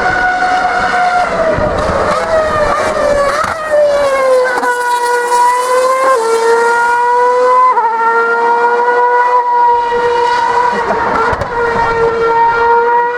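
2013 Formula One cars' 2.4-litre V8 engines running at high revs on track, one loud, high-pitched engine note that falls away and then holds. About six seconds in, and again nearly two seconds later, the pitch jumps suddenly at gear changes.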